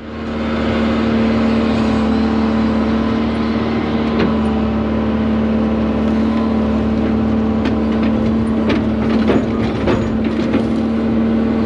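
120 excavator's diesel engine running steadily under load with a constant hum while digging a trench, with scattered knocks and scrapes from the bucket in the ground.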